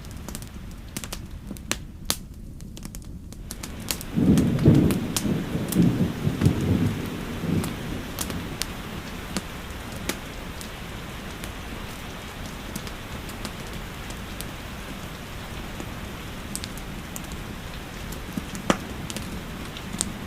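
Steady rainfall with scattered sharp clicks of a crackling wood fire. About four seconds in, a low rumble of thunder rolls for about three seconds and is the loudest sound.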